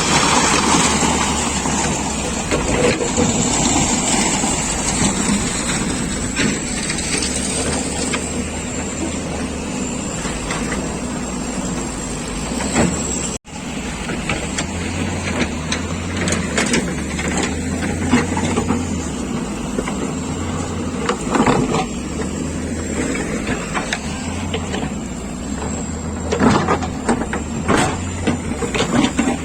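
A motor vehicle running steadily, with a low engine hum, rattles and scattered knocks. The sound drops out for a moment about halfway through.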